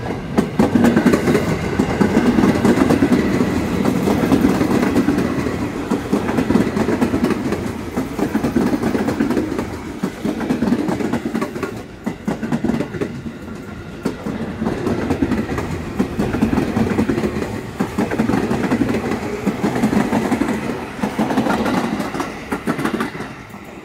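Electric commuter train passing close by, its wheels clacking over the rail joints. The sound rises and falls every few seconds and drops away near the end.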